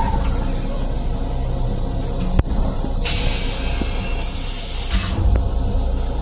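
Steady low rumble of a Metro-North M7 electric railcar, heard inside its restroom, with a sharp click about two and a half seconds in and two hisses of about a second each, one just after the click and one right after that.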